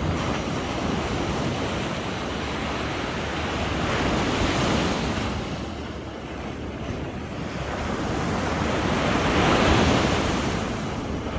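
Sea waves breaking and washing onto the shore, the surf swelling louder twice, about four and ten seconds in.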